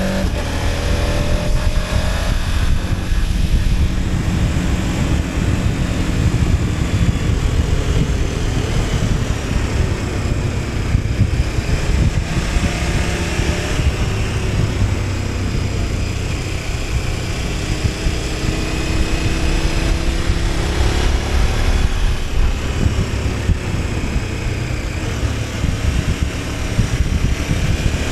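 KTM 1290 Super Adventure S's V-twin engine running steadily while riding, its pitch drifting gently up and down with small changes of throttle, under heavy wind and road noise.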